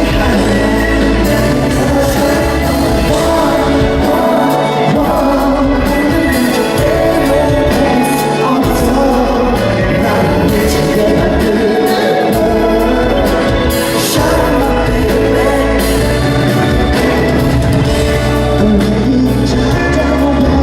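Loud live pop music with singing, played through a concert hall's sound system.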